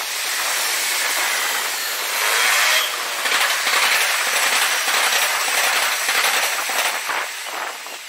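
Trains on the tracks, sped up four times: a dense rushing and rattling of wheels on rail, with a run of quick clacks near the end.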